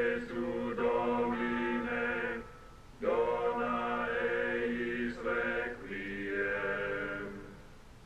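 Chant-like choral music, voices holding long sustained chords, with a short break about two and a half seconds in.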